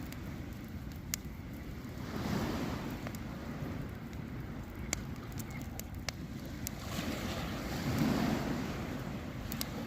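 Steady wind rumble on the microphone with two swells of rushing noise, about two seconds in and again near the end. A campfire gives a few sharp single pops.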